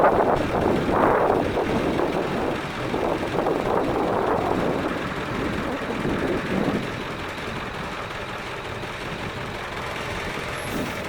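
International T444E turbo-diesel V8 running in the bus, with gusty wind buffeting the microphone. The sound surges unevenly and eases off after about six seconds.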